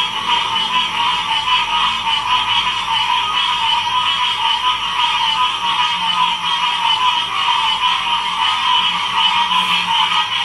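A dense chorus of many frogs calling at once: a steady, unbroken din of overlapping, rapidly pulsing calls at two pitches, one middling and one higher.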